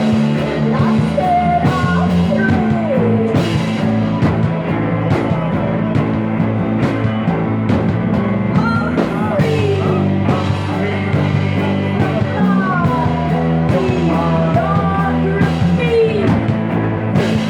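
Psychedelic rock music played by a band: a lead line slides and bends in pitch over a steady bass and drum beat.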